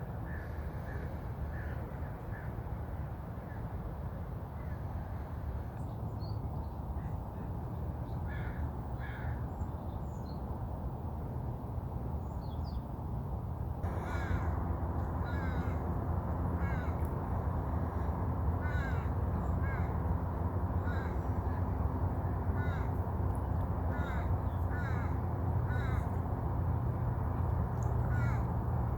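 A bird calling repeatedly, short pitched calls coming about once a second and often in pairs from about halfway through, over a steady low rumble of background noise.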